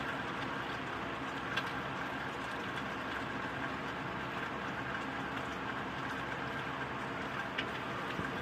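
Thunderstorm rain falling steadily as an even hiss, with two small ticks, one about a second and a half in and one near the end.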